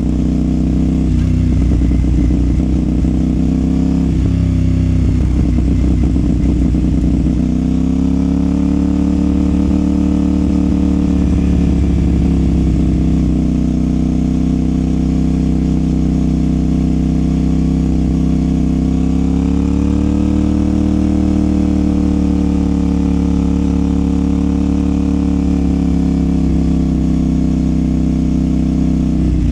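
CFMOTO 450SR's parallel-twin engine and exhaust running under way at fairly steady revs, with gentle rises in engine pitch about a third and two-thirds of the way through.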